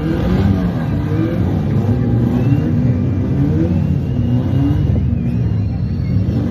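Car engines revving, their pitch climbing and dropping again and again over a low rumble.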